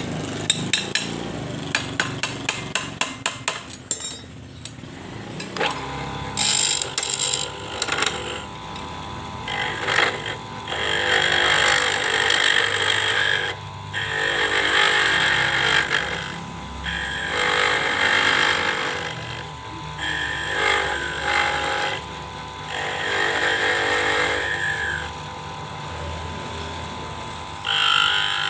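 A quick run of sharp knocks, then a small lathe running with a steady hum while a cutting tool scrapes the spinning PVC pipe in repeated passes of a few seconds each.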